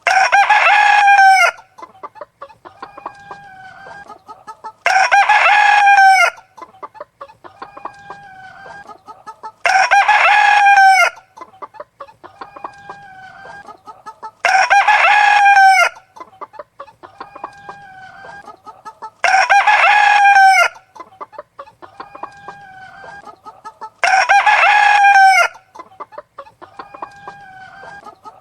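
Rooster crowing six times, one crow about every five seconds, each crow alike, with hens clucking more quietly in between.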